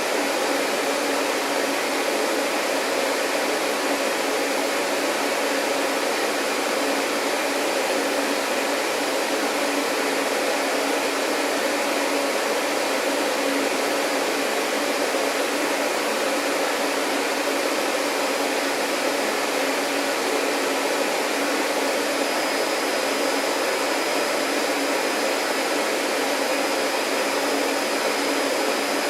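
Vacuum cleaner running steadily: an even rushing hiss over a low, constant motor hum. A faint high tone joins about two-thirds of the way through.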